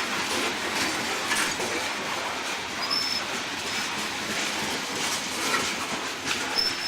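Loaded coal train rolling past: a steady rumble of wheels on rail, with scattered clacks and two brief high wheel squeals, about three seconds in and again near the end.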